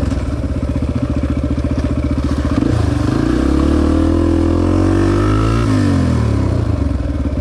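Honda XR250 single-cylinder four-stroke dirt bike engine running under throttle. The revs climb steadily for about three seconds, then drop sharply as the throttle comes off.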